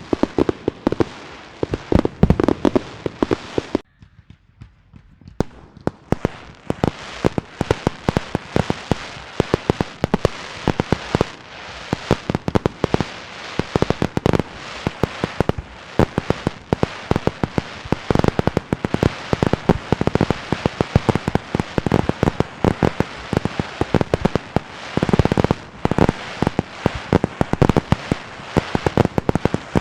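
Fireworks and firecrackers going off in a rapid, dense run of sharp bangs, many a second. The bangs stop for about a second and a half around four seconds in, then resume.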